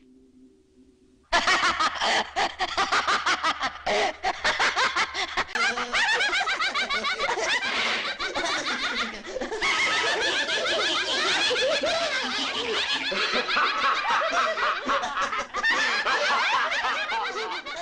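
A chorus of loud, wild laughter from many overlapping voices: a man laughing together with the possessed objects of a room. It breaks in suddenly about a second in.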